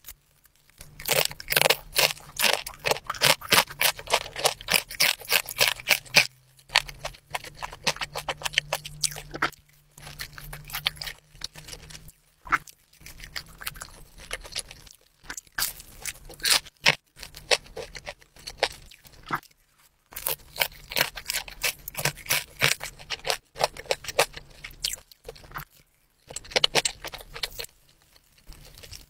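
Crisp pan-fried dumplings (mandu) being bitten and chewed close to the microphone: runs of dense crunching, broken by short pauses between mouthfuls.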